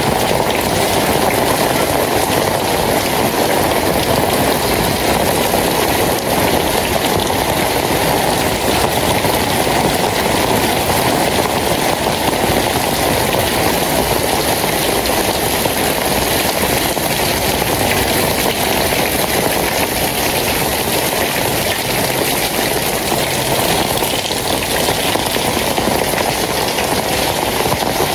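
Steady heavy rain falling, a loud, even hiss with no breaks.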